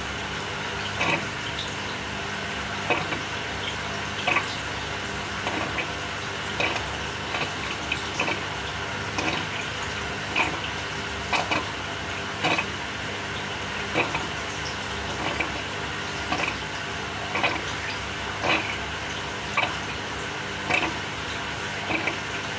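Samsung 6.5 kg top-loading washing machine agitating a load in water: a steady motor hum with a slosh or splash about once a second as the wash action swings back and forth.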